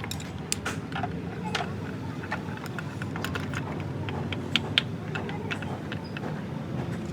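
Small metal clicks and clinks of tools and gearbox parts being handled, the loudest two close together past the middle, over a steady low rumble of workshop background noise.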